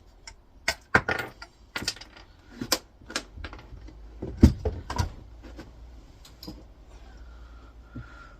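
Small metal parts clinking and tapping, several sharp clicks over the first five seconds with the loudest about four and a half seconds in, as a small aluminium spacer is worked off a monitor stand's actuator.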